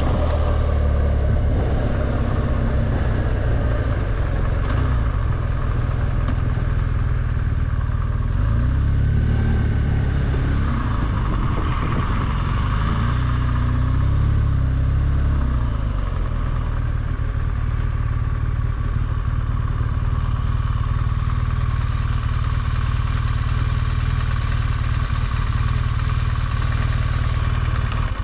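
BMW R1200GS Adventure's boxer twin engine running at road speed with steady wind and road noise, pulling harder for a few seconds about a third of the way in.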